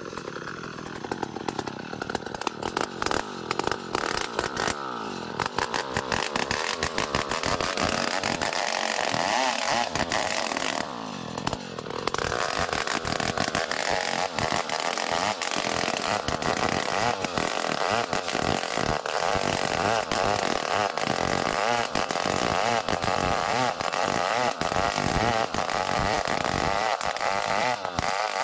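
Two-stroke chainsaw running at high revs, sawing ulin ironwood lengthwise into a beam; the engine note dips briefly about eleven seconds in, then runs on steadily.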